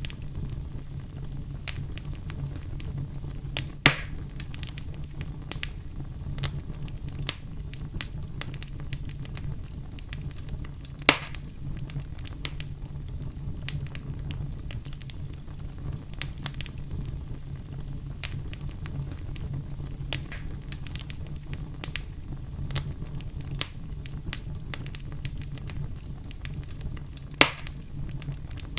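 Wood fire in a fireplace burning with a steady low rumble and constant crackling, with three louder pops about 4, 11 and 27 seconds in.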